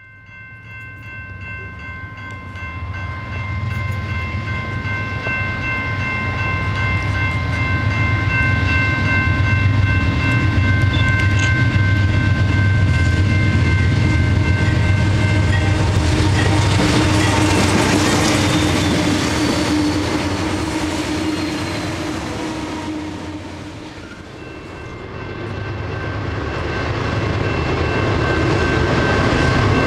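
CSX C40-8 diesel locomotives leading a freight train sound a long air-horn chord while approaching, over a deep diesel rumble. About halfway through, the lead units pass close by with a loud rush of engine and wheel noise that then fades. Near the end a second train, a BNSF freight, starts sounding its horn as it approaches.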